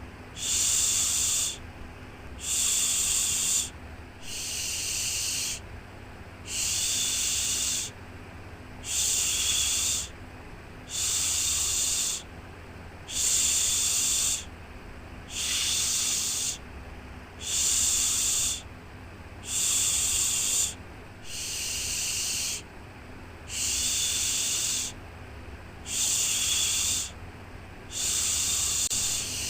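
Rhythmic 'shhh' shushing used to soothe a baby to sleep: each hissing shush lasts about a second and repeats about every two seconds, over a faint steady low rumble.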